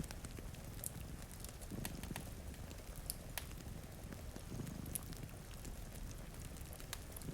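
Cat purring, its low purr swelling about every three seconds with each breath, over scattered crackles and pops from a wood fire and a steady patter of rain.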